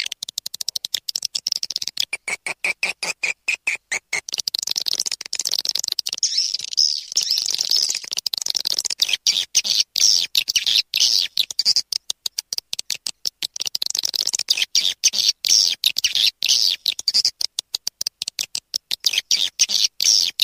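Swiftlet lure call: a recording of swiftlets twittering rapidly and densely at a high pitch, the sound played to attract swiftlets to roost and nest. It is broken by frequent very brief cut-outs, with a lower trill for a couple of seconds early on.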